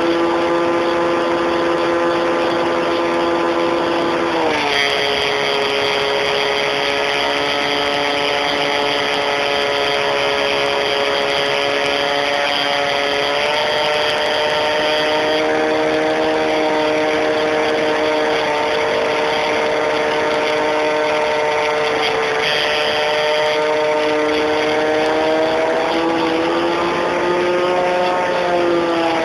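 Electric motor and propeller of an Art-Tech electric RC Cessna, heard close up from a camera on board: a steady whine with several tones whose pitch drops about four seconds in, rises a little midway, then climbs and falls again near the end as the motor speed changes.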